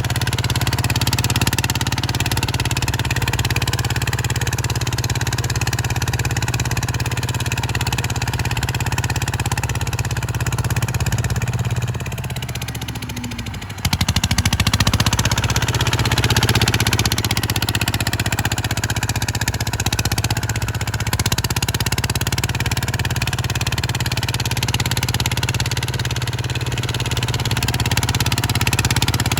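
Kubota RT140 single-cylinder diesel engine running steadily under load, with a short dip in level and then an abrupt return to full level about fourteen seconds in.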